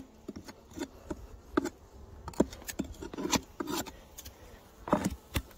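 Scattered knocks, clicks and rubbing as wooden beehive parts are handled, with honeybees buzzing faintly underneath. The loudest knocks come about a second and a half in and near the end.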